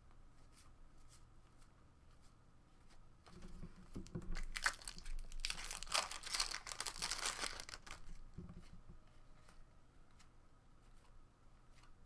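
Wrapper of a baseball card pack being torn open and crinkled for about four seconds, starting a few seconds in. Light clicks of cards being handled before and after.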